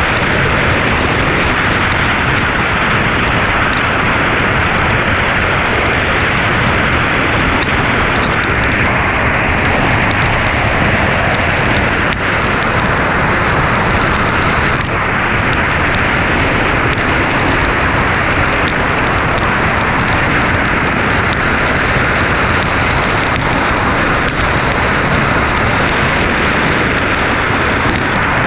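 Heavy rain and wind with the steady rush of a car driving on a drenched road, an unbroken loud noise with a deep rumble underneath.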